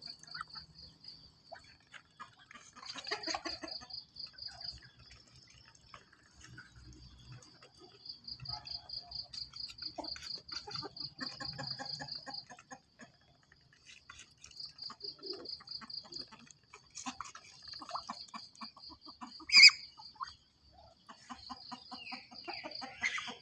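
A high, fast-pulsing trill that comes in spells of a few seconds, over scattered clucking calls and light knocks, with one short, loud call about twenty seconds in.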